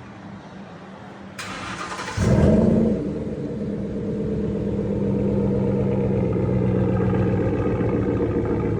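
Ford F-150's 5.0 V8, exhausting through a Corsa muffler and 3-inch stainless tailpipe, being started: the starter cranks for under a second, the engine catches with a loud flare of revs, then settles into a steady idle.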